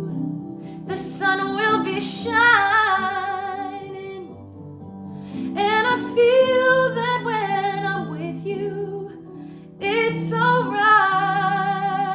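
A woman singing slow phrases with vibrato over sustained instrumental accompaniment, each phrase starting, swelling and fading over a few seconds.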